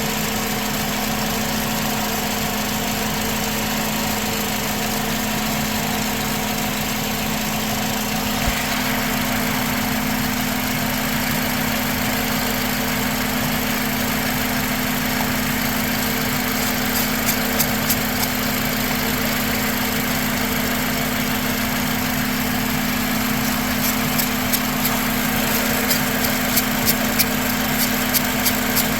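A steady mechanical hum with an even drone runs throughout. In the second half a run of light, quick clicks joins it.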